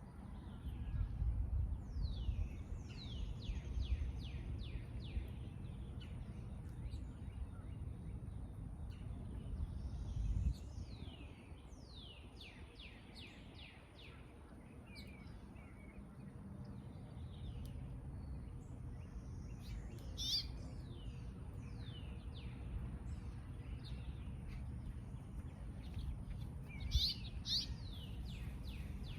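Songbirds singing: repeated phrases of rapid down-slurred notes, with sharper calls about two-thirds of the way in and near the end, over a low rumble.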